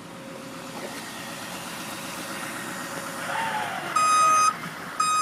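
A 5-ton truck's engine running as it backs up, growing slowly louder. About four seconds in, its reverse alarm starts: a loud, high, steady beep about once a second.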